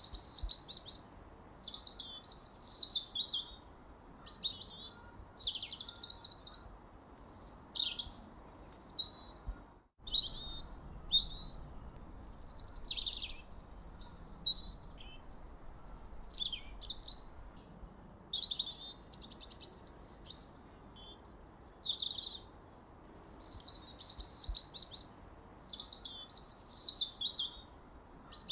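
Birdsong: songbirds singing quick, varied chirping and trilled phrases one after another, high-pitched, with a faint steady background hiss and a brief break about ten seconds in.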